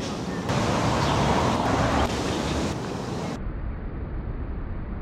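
Wind noise on the microphone, a steady rushing haze that swells louder for about a second and a half near the start, then cuts to a quieter, duller background about three and a half seconds in.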